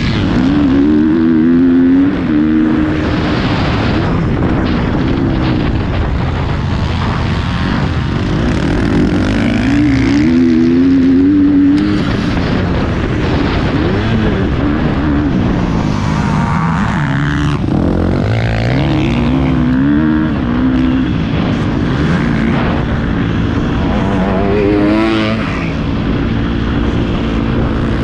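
Motocross bike engine, heard from the bike itself, revving up and backing off again and again as it is ridden round the track, its pitch climbing and falling several times, under a steady rush of wind and tyre noise.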